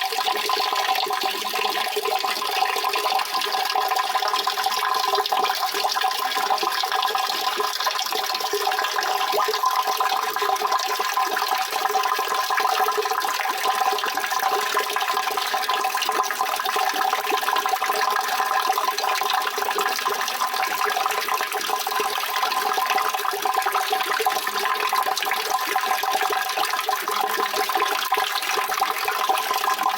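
Steady rushing water, a continuous, unchanging wash of noise.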